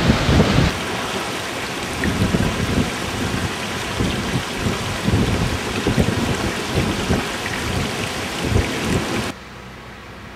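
Strong storm wind buffeting the microphone in heavy, irregular low gusts over a steady rush of wind and water. It drops abruptly to a quieter rush near the end.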